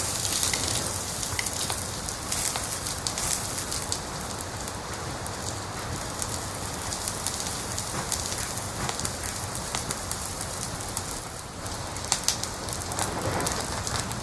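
Wood fire crackling: a steady hiss with many small snaps and pops, a few louder pops near the end.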